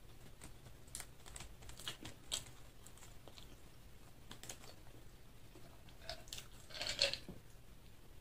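Close-miked chewing of food: soft, scattered mouth clicks and smacks. About seven seconds in comes a louder cluster of sounds as a glass jug of iced drink is lifted to the mouth and sipped.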